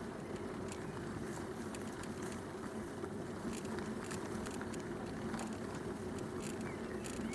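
Bicycle riding along a canal towpath: a steady rumble of the tyres on the path, with scattered small clicks and rattles.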